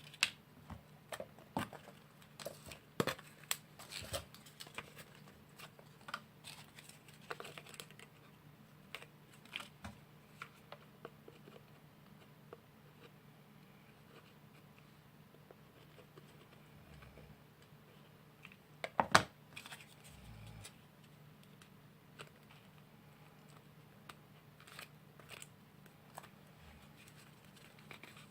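Small craft materials being handled at close range: paper and cardboard pieces tapping, clicking and rustling as a miniature fireplace is assembled. The clicks come thickly for the first several seconds, then thin out, with a louder cluster of knocks about two-thirds of the way through.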